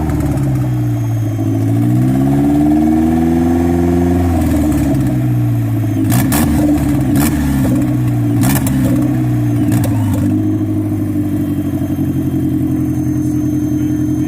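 Turbocharged Mazda Miata four-cylinder engine revved in a few slow throttle blips, with several sharp cracks in the middle. It settles back to a steady idle about ten seconds in. The fresh tune still needs adjusting.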